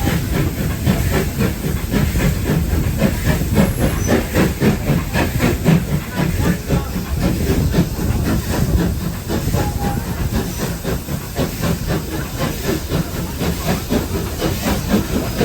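Train running, with a steady rushing hiss and a fast, fluttering rattle that is heaviest in the low end.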